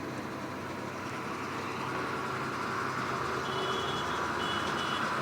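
Truck engine running steadily, growing louder from about two seconds in, with two brief faint high-pitched squeaks near the end.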